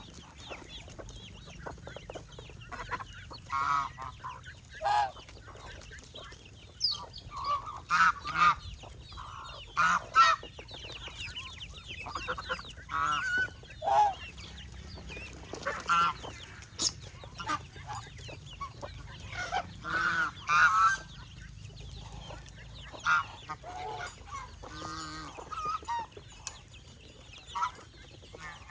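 Farmyard poultry calling: a string of short, pitched calls at irregular intervals, now and then two close together.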